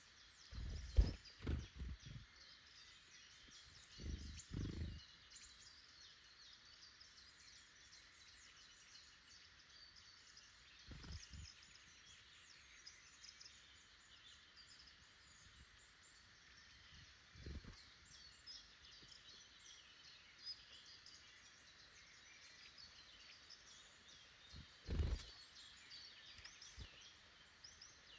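Small forest birds singing and calling faintly and steadily, with five or six short low thumps in between, the loudest about a second in and another near the end.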